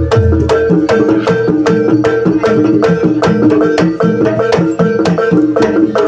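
Javanese gamelan music for an ebeg trance dance: hand-drum strokes keep a steady beat of about three a second over a repeating melody of stepped, ringing notes.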